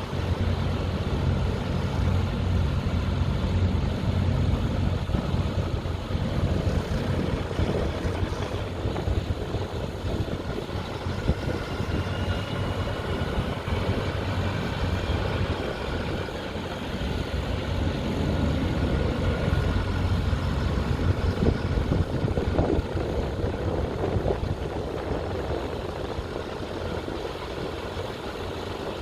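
A large engine running steadily, a continuous low rumble. A faint whine comes and goes in the middle.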